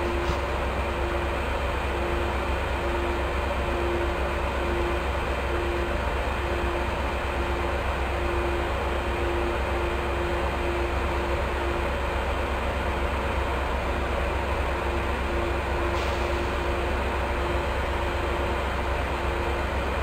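Sounder commuter train standing still with its diesel idling: a steady low rumble and a humming tone that comes and goes.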